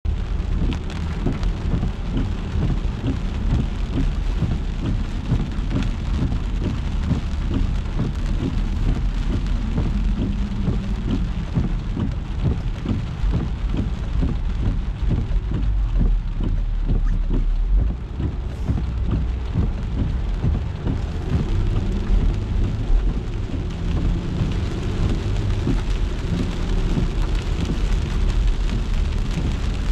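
Rain falling on a moving car: many close, irregular drop hits over a continuous rain hiss, with a low steady rumble of the car and the road underneath.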